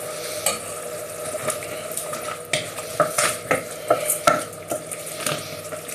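Spoon stirring rice and sausage in a frying pan, scraping and clicking irregularly over a steady sizzle.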